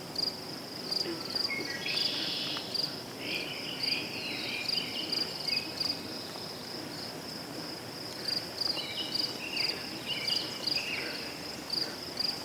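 Crickets chirping steadily in a high, evenly pulsing trill. Short bursts of bird twittering join them about two to four seconds in and again around nine to eleven seconds in.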